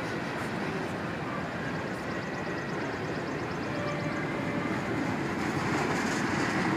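CSX freight train's container-loaded flatcars rolling past on the track, a steady wheel-and-rail rumble.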